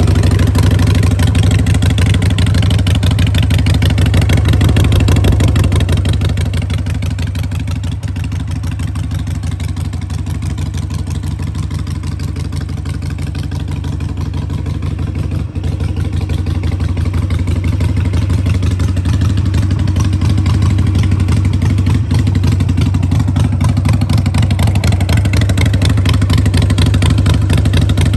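2005 Harley-Davidson 883R Sportster's carburetted 883 cc air-cooled V-twin running through Vance & Hines Short Shots pipes. It is louder for the first six seconds or so, settles lower, then slowly rises again toward the end.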